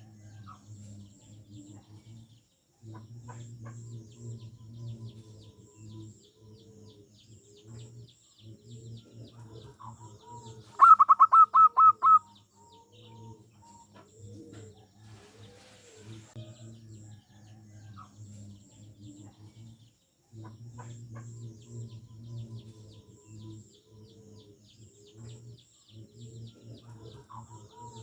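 Zebra dove (perkutut) singing: soft, low cooing notes repeat throughout, broken about eleven seconds in by one loud, rapid run of about six higher notes. Faint high chirping runs underneath.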